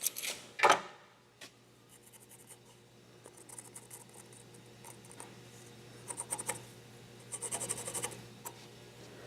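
Pencil scratching marks onto a square wood blank in several short clusters of strokes, after a couple of light taps near the start, over a steady low hum.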